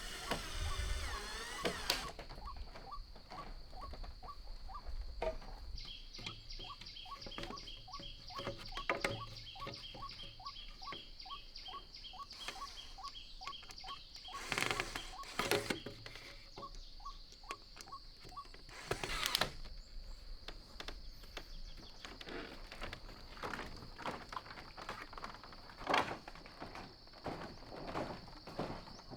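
Forest ambience: a steady high-pitched insect drone, with a run of rapid repeated calls, about three a second, for several seconds. A few sharp knocks stand out, the loudest about two-thirds of the way in.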